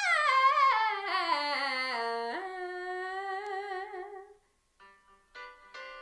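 A woman singing a wordless vocal run that steps down in pitch, then leaps up to a held note with vibrato that fades out about four seconds in. Short accompaniment chords follow near the end.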